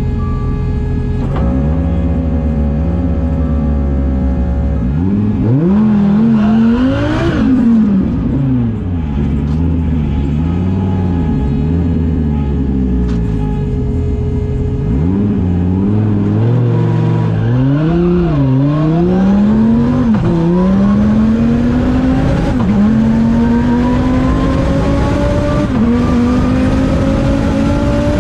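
Twin-turbo 2014 Dodge Viper's 8.4-litre V10, heard from inside the cabin: idling, then blipped up and down again and again while staged at the start, then launched, the revs climbing steadily with a drop at each of two upshifts near the end.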